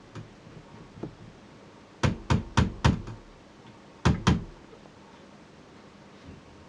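Six sharp knocks on something hard: four quick ones about two seconds in, then a pause and two more close together.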